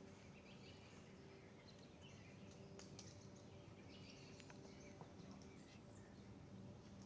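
Near silence in woodland, with faint scattered high chirps of small birds and a few soft ticks over a low steady background hum.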